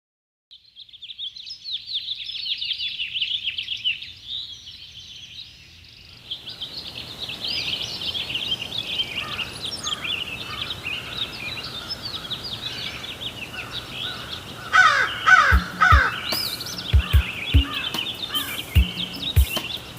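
A chorus of small birds chirping rapidly and densely, joined by a steady hiss about six seconds in. In the last few seconds deep, separate thumps come in, like a bass drum opening the next track.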